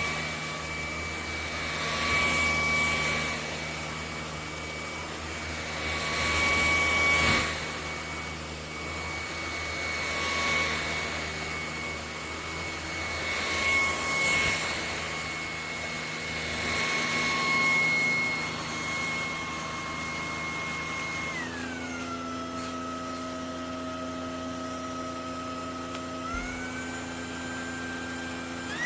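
ElecKeys K10 cordless stick vacuum running with a steady high motor whine that swells and fades every few seconds. About three-quarters of the way through, the motor pitch drops sharply and holds lower, then steps partway back up near the end.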